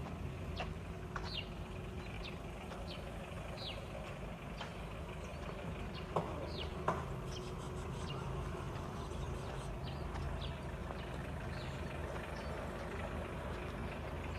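Bird chirping again and again in short, high chirps that fall in pitch, over a low steady rumble of distant traffic, with two sharp knocks a little past the middle.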